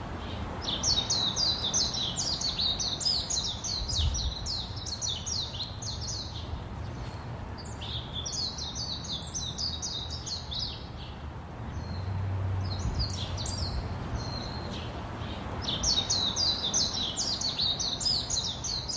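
Songbirds chirping in quick runs of high, falling notes, in several bouts with short pauses between them, over a steady low background rumble.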